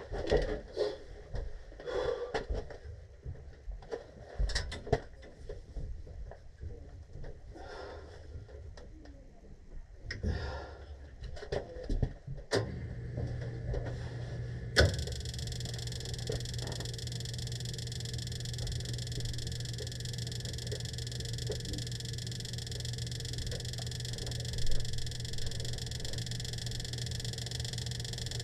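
Clicks and knocks of tools and parts being handled, then the heating unit starting: a low steady motor hum begins about halfway through, joined a couple of seconds later by a steady rushing whir that carries on.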